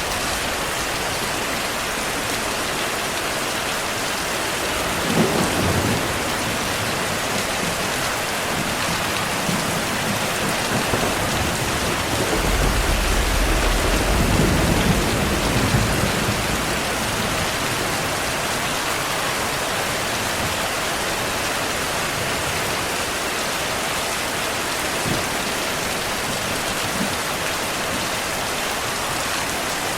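Steady rain falling with thunder: a short swell about five seconds in and a longer low rumble from about twelve to sixteen seconds.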